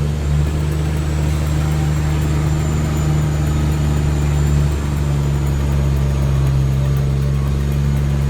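Diesel engine of a 1948 Peterbilt log truck with a 600 horsepower Cummins, running steadily under load with a deep, even drone.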